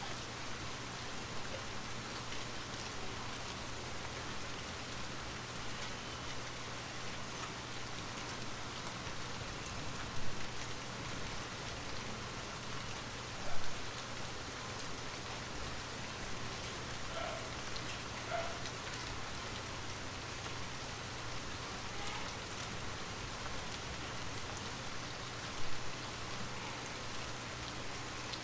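Steady rain falling, an even hiss of drops, with three brief louder taps or splashes standing out now and then.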